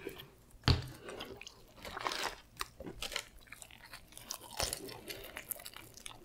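Biting into crispy fried chicken and chewing it close up, the breading crunching: a sharp crunch under a second in, then steady crackly chewing with another crunch near the end.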